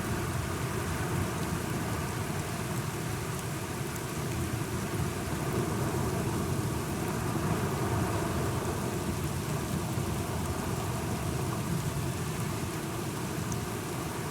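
Steady rain falling, with a low rumble of thunder underneath that swells slightly about halfway through.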